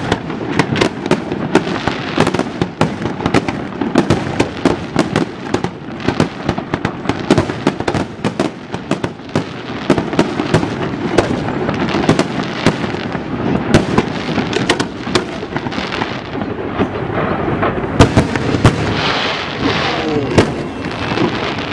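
Fireworks display going off: many sharp bangs in quick succession over a continuous crackle and rumble.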